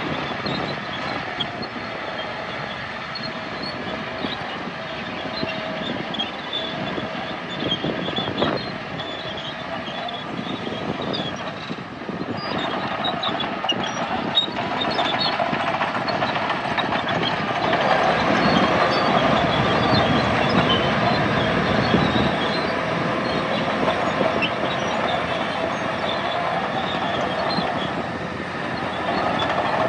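Bulldozer's diesel engine running under load, with the clatter and clink of its steel tracks; it gets louder a little past the middle, then eases off.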